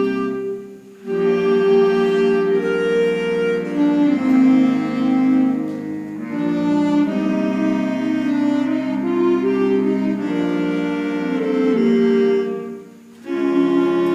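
A school woodwind band playing slow, sustained chords, with two brief breaks between phrases, about a second in and near the end.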